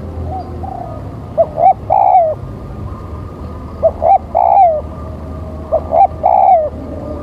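Spotted dove (tekukur) cooing, the call of a lure bird: a repeated phrase of two short notes and then a longer falling coo, three times about two seconds apart.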